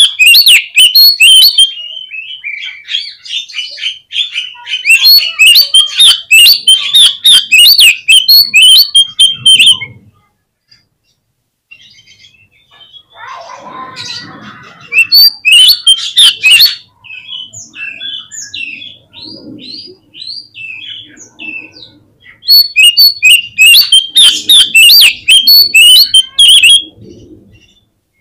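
Oriental magpie-robin (kacer) singing in loud bursts of rapid, harsh chattering notes. The song stops for about three seconds near the middle, returns as quieter calls, and ends in another loud run of chatter.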